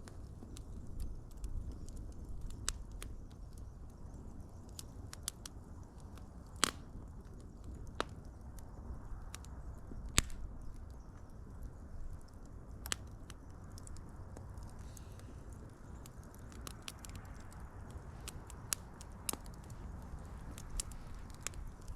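Wood fire crackling: scattered sharp pops and snaps over a low, steady rumble of burning, the loudest pops about a third and about halfway through.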